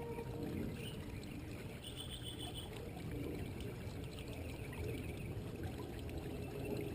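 Faint running water, trickling steadily, with a short high trill about two seconds in.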